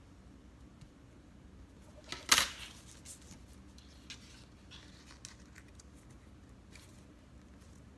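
Cardstock being handled, folded and pressed flat along its score lines: soft paper rustles and small taps, with one sharp, louder crack a little over two seconds in.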